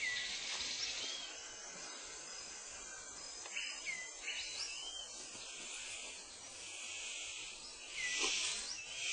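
Rainforest insect chorus, a steady high buzzing that swells louder near the end, with a few short whistled bird notes that dip and rise in pitch.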